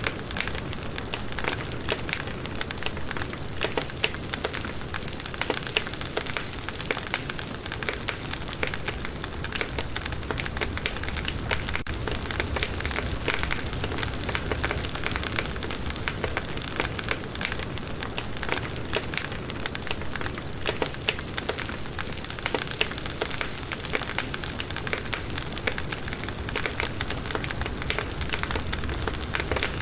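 Wood fire burning steadily, firewood logs crackling with many small pops and snaps over a low rumble.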